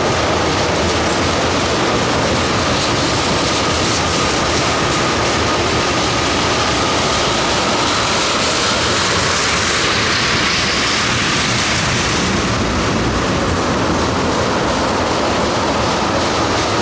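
Ethanol tank cars of a freight train rolling past close by: a loud, steady roar of steel wheels on rail, with a thin high whine running through it.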